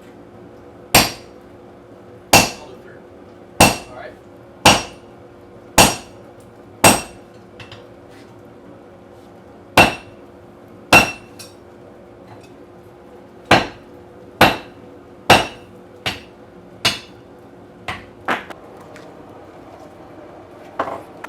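Hammer blows on a steel punch being driven through the hot hammerhead to punch its eye, the punch finally shearing out a plug. About fifteen sharp, ringing metal strikes, roughly one a second in runs with short pauses, over a steady low hum.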